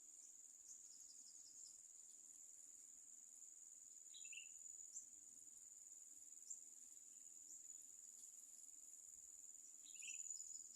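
Faint, steady, high-pitched insect drone. Brief chirps sound about four seconds in and again near the end.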